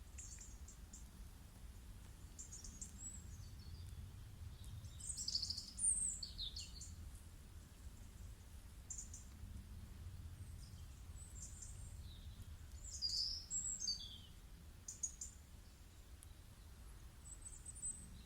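Faint birdsong: short chirping phrases every second or two, over a low steady hum.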